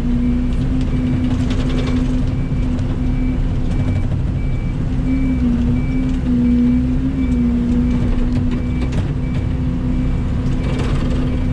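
Mini excavator diesel engine running hard under load as the machine tracks forward pushing dirt, its pitch wavering and dipping briefly midway as it lugs. A travel alarm beeps steadily about three times a second, and there are clanks and scrapes around two seconds in and near the end.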